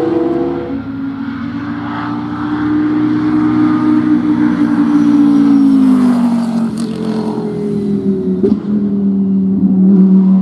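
Racing car engine running hard on track, its pitch stepping down just under a second in, holding, then falling around six seconds in. Two sharp cracks come near the end.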